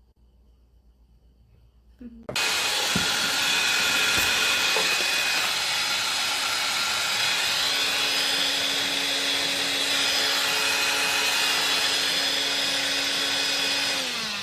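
An electric motor appliance switched on about two seconds in with a sudden start, running steadily with a loud whir. It is switched off near the end, its pitch falling as the motor spins down.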